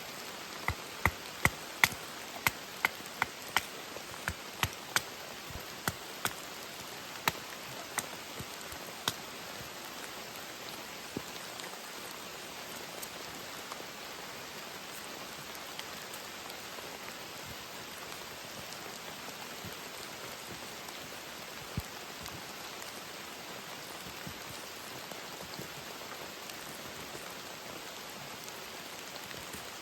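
Steady rain falling throughout. During the first third comes a run of sharp knocks, about two a second, tapering off, with a single knock later on.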